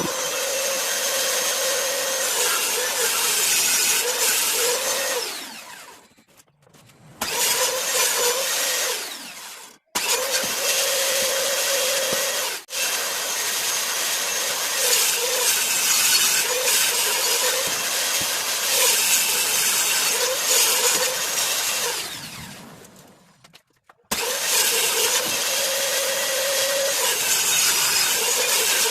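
Electric woodworking power tool running and cutting board. It is switched off and winds down about five seconds in, starts again a second or so later, cuts out briefly twice more, then winds down again near the end and restarts.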